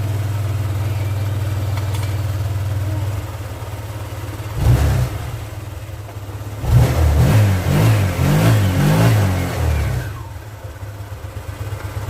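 Small single-cylinder scooter engine, likely the Honda Click 150, idling steadily, then revved once briefly and then in a run of throttle blips that rise and fall, before settling back toward idle.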